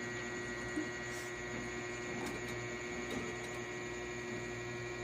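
Steady electrical hum, with a few faint soft clicks about a second in and again two to three seconds in.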